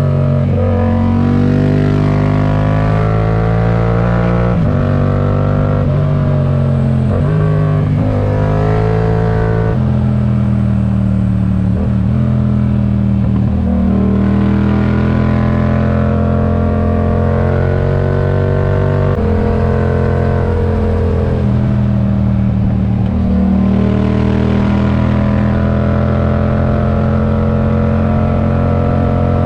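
Yamaha MT-07's parallel-twin engine through an aftermarket RoadsItalia exhaust, ridden on the road. The revs climb and drop sharply several times over the first ten seconds or so, then hold steadier, rising and easing slowly.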